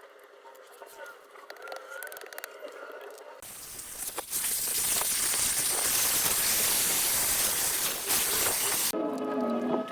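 Soldering torch burning with a loud, steady hiss, coming in about three seconds in and stopping suddenly about nine seconds in, as used to heat a copper joint for soldering.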